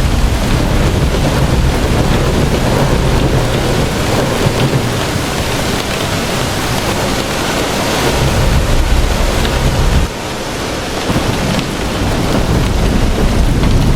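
Heavy rain in a severe thunderstorm, with a deep continuous rumble beneath it that drops away briefly about ten seconds in.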